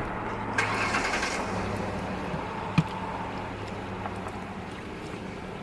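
Steady low hum of an idling vehicle engine. About half a second in there is a brief rustle, and near the middle a single sharp click.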